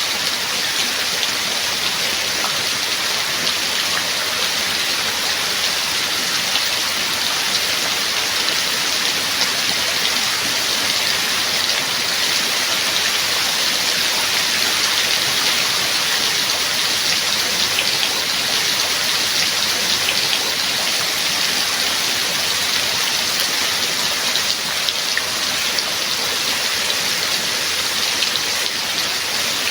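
Steady, heavy rain falling, an even hiss with many individual drops pattering through it.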